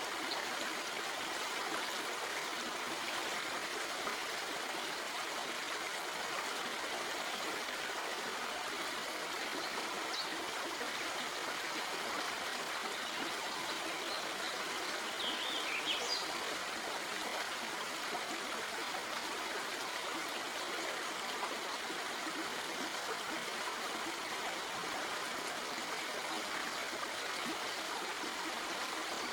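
Stream water flowing and babbling steadily over rocks, with a brief faint high sound about halfway through.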